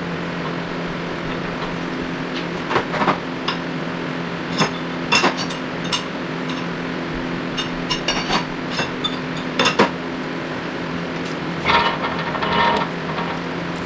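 Metal tools and parts clinking and knocking on a workbench, a dozen or so sharp irregular clinks over a steady low hum.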